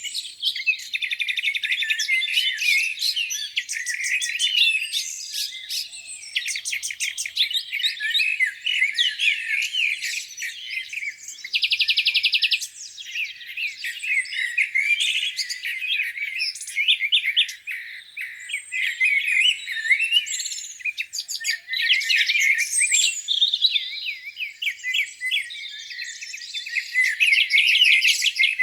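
Several songbirds singing at once in a dense spring-morning chorus: overlapping chirps, whistles and quick phrases with no break. About twelve seconds in, one bird gives a short, even, buzzy trill.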